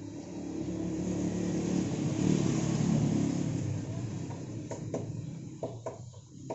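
A motor vehicle passing by, its engine noise swelling to a peak and then fading, followed by a few short clicks near the end.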